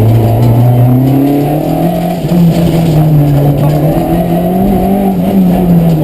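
Rally car engine running loud under load. Its pitch climbs over the first couple of seconds, wavers, and falls away near the end as the car accelerates and slows along the stage.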